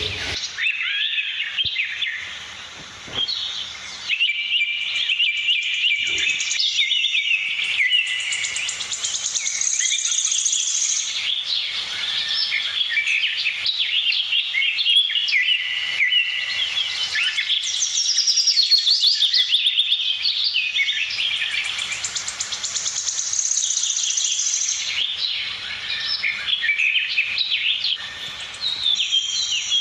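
Budgerigars chattering and warbling: a steady, busy stream of high chirps and trills, with short lulls about three seconds in and near the end.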